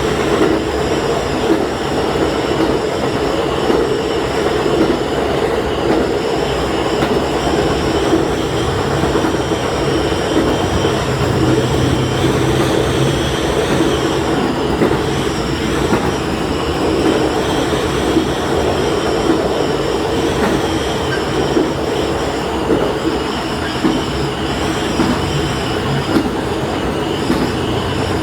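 Diesel railcar running steadily along the track, heard from inside at the front: a constant engine drone mixed with wheel and rail noise.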